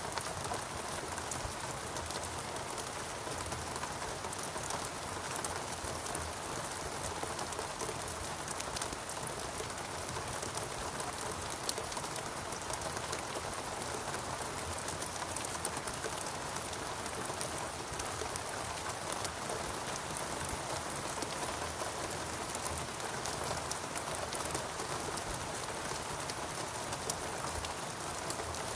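Steady rainfall in a rainforest, a dense even hiss with many individual drops pattering on surfaces.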